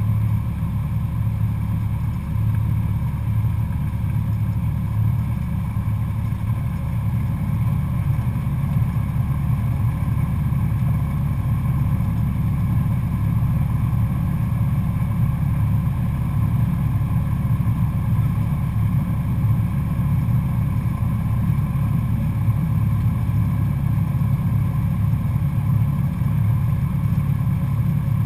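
Cessna 172SP's Lycoming four-cylinder engine and propeller running at a steady power setting: a constant, even drone.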